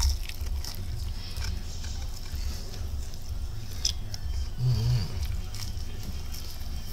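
A person biting into and chewing a breaded fried chicken tender close to the microphone, with irregular low thumps and scattered short clicks of the mouth.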